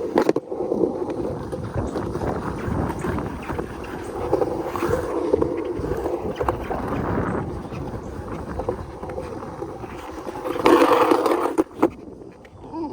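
Skateboard rolling and carving on lacquered skatepark concrete: a steady wheel rumble with scattered light clicks. It swells louder for about a second near the end, then a sharp knock and it drops away.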